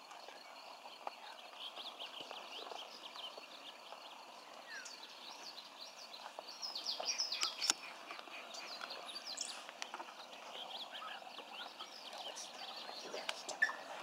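Small marsh birds chirping throughout, busiest about halfway through. Near the end the rufous-necked wood-rail begins calling.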